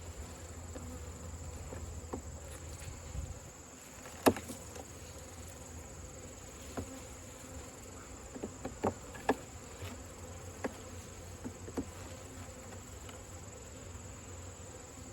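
Honeybees buzzing around an opened hive, over a steady high-pitched insect drone. A series of sharp knocks and clicks from the hive's wooden parts being handled comes through it, the loudest about four seconds in and smaller ones in the second half.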